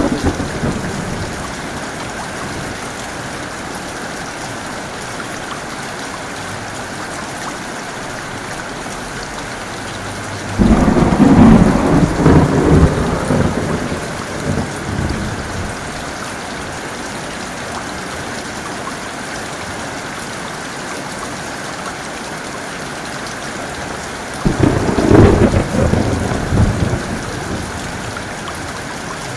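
Steady heavy rainfall with rolls of thunder: a rumble fades out at the start, and two more break in suddenly about ten seconds in and near the end, each rumbling for a few seconds before dying back under the rain.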